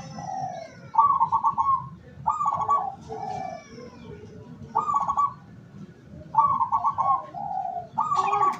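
Zebra dove (perkutut) cooing: about five rolling coo phrases, each a quick trilled note followed by a lower, softer coo.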